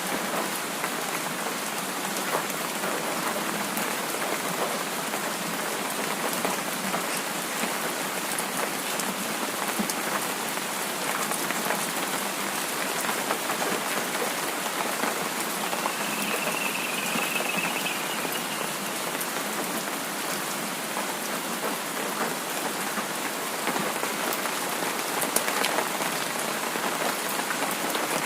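Steady rain falling on a surface: an even hiss scattered with small, sharp drop ticks.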